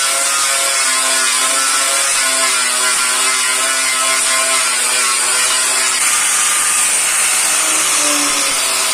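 Power tool running steadily under load against metal, a continuous loud hiss with a shifting whine over it, as in stripping down old compressor parts.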